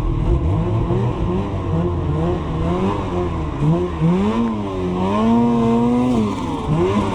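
Snowmobile engine revving up and down repeatedly while riding, its pitch rising and falling several times and held high for about a second near the end.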